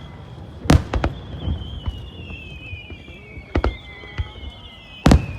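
Fireworks display: several sharp bangs of shells bursting, the loudest just under a second in and near the end, with a high whistle that slides slowly down in pitch for several seconds between them.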